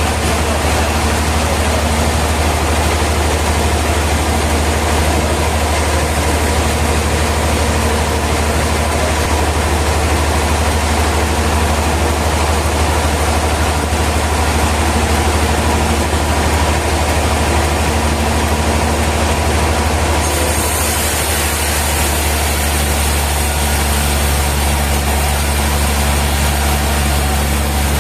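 Sawmill machinery running steadily with a heavy low hum. About twenty seconds in, the tone of the hum shifts and a high hiss joins it.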